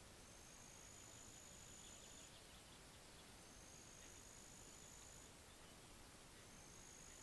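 Faint insect trill: a steady, high, even buzz about two seconds long, repeated three times at roughly three-second spacing, over a soft background hiss.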